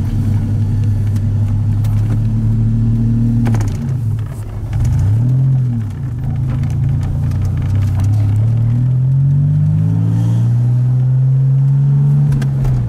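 1981 DeLorean DMC-12's PRV V6, with a Stage-2 upgrade and custom electronic fuel injection, pulling the car along, heard from inside the cabin. The revs drop briefly about four seconds in and again near six seconds, then climb steadily for several seconds and fall away near the end.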